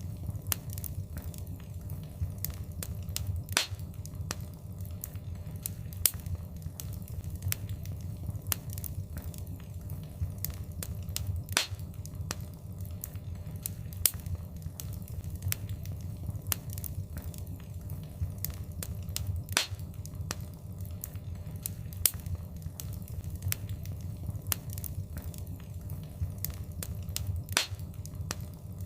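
Wood fire crackling, with frequent small snaps and a louder pop about every eight seconds over a steady low rumble of burning.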